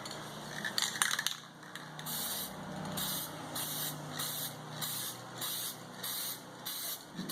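Aerosol can of high-temperature paint spraying in short bursts of hiss, about two a second, after a few clicks about a second in.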